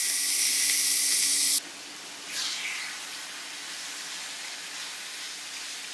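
Lemon-marinated chicken breasts sizzling in hot avocado oil in a grill pan. The sizzle is loud for about the first second and a half, drops off suddenly, swells briefly once, then goes on more quietly.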